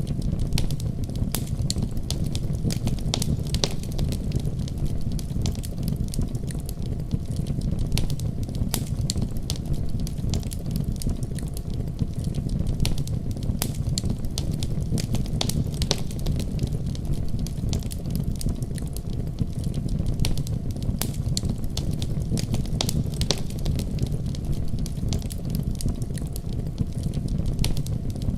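Wood fire crackling in a fireplace, with frequent sharp pops and snaps over a steady deep rumble of storm wind.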